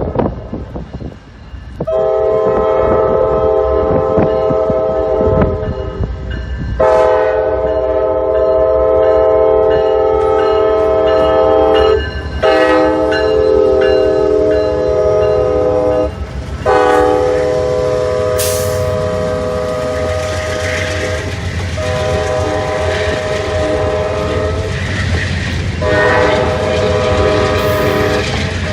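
Amtrak locomotive's air horn sounding a chord of several notes in a run of long blasts, each several seconds long, with brief breaks between them, over the low rumble of the train.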